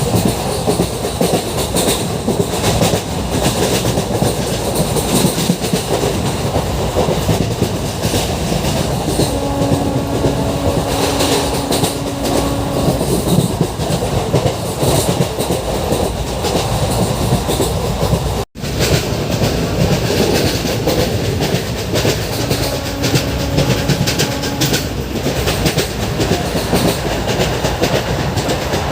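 Express passenger train running steadily on the Konkan Railway: a loud, continuous rumble and rattle of wheels on track. The sound cuts out for an instant about two-thirds of the way through.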